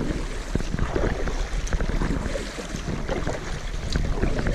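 Water splashing and sloshing around a kayak, with irregular small splashes and wind buffeting the microphone.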